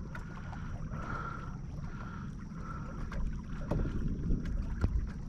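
Low wind rumble on the microphone and water sounds around a fishing kayak, with a few faint clicks and knocks.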